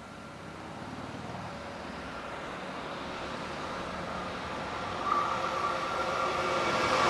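Freight train approaching, its rumble and rail noise growing steadily louder, with a steady high tone joining about five seconds in.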